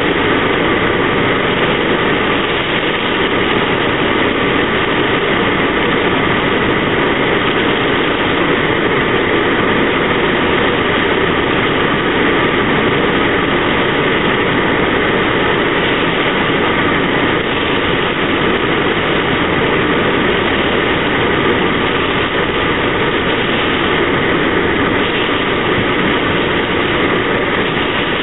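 Torrential rain drumming steadily on the roof and windscreen of a car, heard from inside the cabin.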